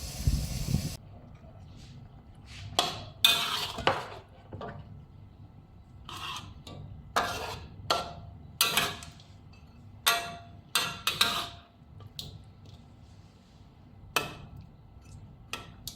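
A running kitchen tap shuts off about a second in, followed by a dozen or so irregular clinks and knocks of dishes, bowls and utensils being handled, some ringing briefly.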